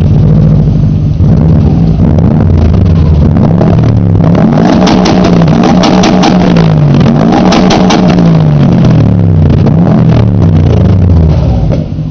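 Subaru WRX STI's turbocharged flat-four running loud through a new Prodrive aftermarket exhaust. It holds steady for about four seconds, then is revved up and down several times, and drops back to a quieter idle near the end.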